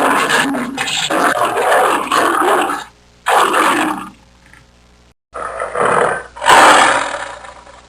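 Big cat growling and roaring: a long rough growl, then three shorter roars separated by short pauses.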